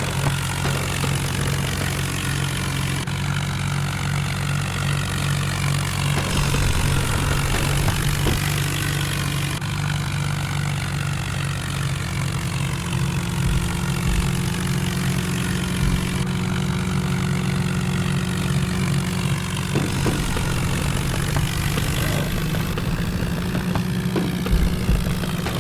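Tractor's diesel engine running steadily at constant speed.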